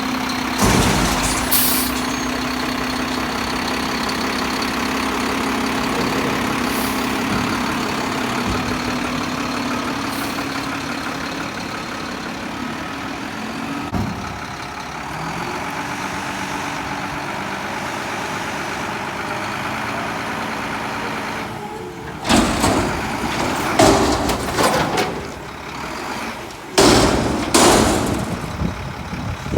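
Mack front-loader garbage truck running steadily, with a held tone that fades out about halfway through. Loud metal bangs and clatter come in two bursts near the end.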